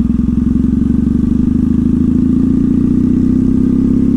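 2014 Triumph Thruxton's parallel-twin engine running at a steady cruise through slash-cut TT exhaust pipes, its firing pulses even and unbroken.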